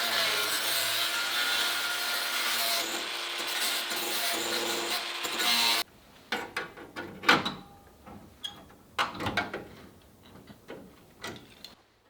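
A handheld power tool running steadily, cutting off abruptly about six seconds in, followed by a series of irregular clicks, knocks and scrapes.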